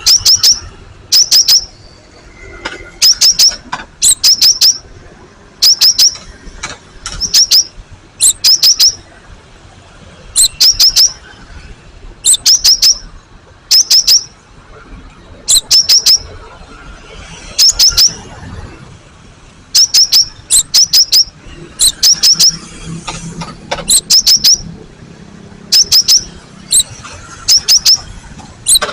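Cinereous tit (gelatik batu) singing: loud, repeated short phrases of two to four sharp, high, down-slurred notes, about one phrase every second or so.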